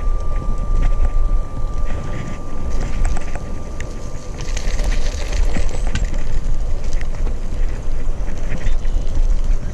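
Wind buffeting the microphone on a moving bicycle, with street traffic noise and scattered small clicks.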